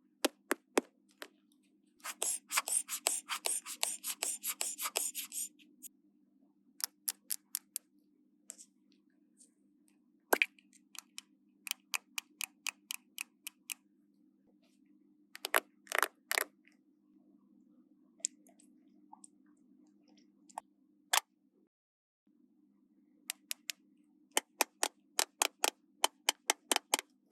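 Small plastic toys being handled: a series of sharp clicks and taps, with a dense run of rapid clicking about two seconds in that lasts some three seconds, over a faint steady hum.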